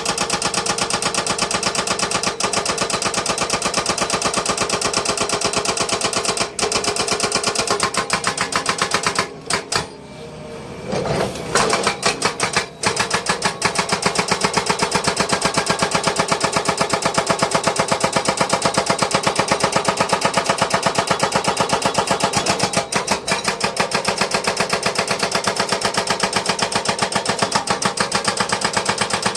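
Heavy construction machine running with a fast, even pulsing, which dips briefly a little past the middle.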